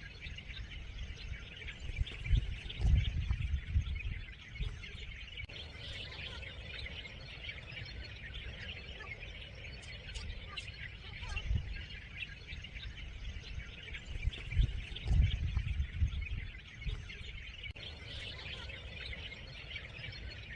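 Many small birds chirping and calling together in a continuous dawn chorus. Low rumbling comes in twice, a couple of seconds in and again about three-quarters of the way through, and is the loudest sound in those spells.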